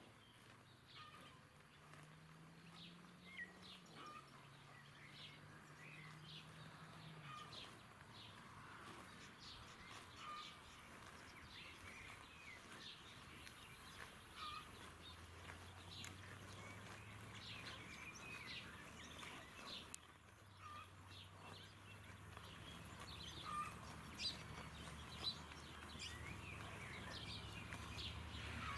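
Faint outdoor ambience of small birds chirping, with many short, high calls scattered throughout. A faint low hum lies underneath, and a few short clicks stand out near the end.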